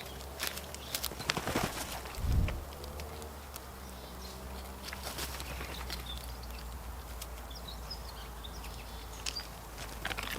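Birds at a backyard feeding spot: scattered taps and rustles, a loud low flutter or thump about two seconds in, and a few faint high chirps.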